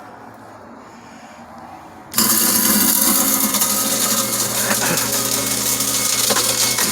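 Moen 1/2 HP garbage disposal switched on about two seconds in and running steadily with a loud whirring grind, working again after its reset.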